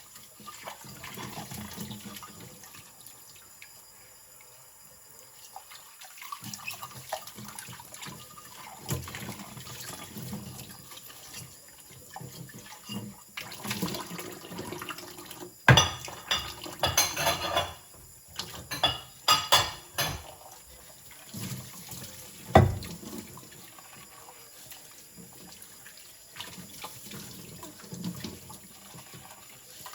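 Water running from a kitchen tap and splashing in the sink during rinsing. Dishes clatter in a cluster of sharp knocks just past the middle, with one loud knock a few seconds later.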